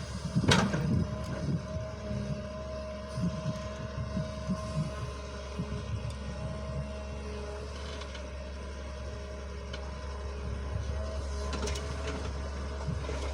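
A machine running steadily with a constant whine, with a sharp knock just after the start and scattered lower clunks after it.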